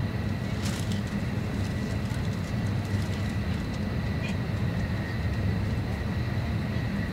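Cabin noise of an E6 series shinkansen running at speed, heard inside the passenger car: a steady low rumble with a faint steady high whine, and a couple of light ticks about a second in and about four seconds in.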